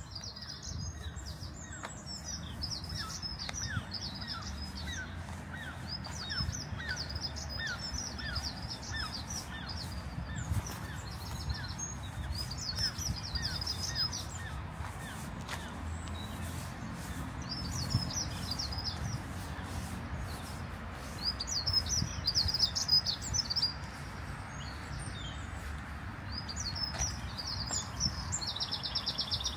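Songbirds singing, with high twittering phrases that come again every few seconds. Over roughly the first half there is also a run of short, repeated lower notes. A steady low background rumble runs underneath.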